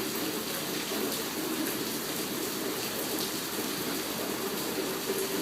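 Heavy rain pouring down steadily during a rainstorm.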